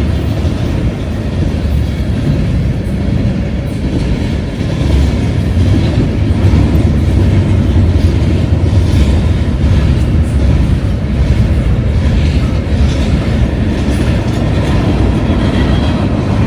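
A train rolling past with a steady, loud rumble of wheels on the rails.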